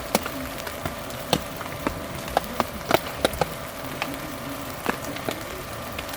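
Rain falling on a tent, an even patter with heavy drops striking the wet fabric as irregular sharp taps. A faint steady hum sits underneath.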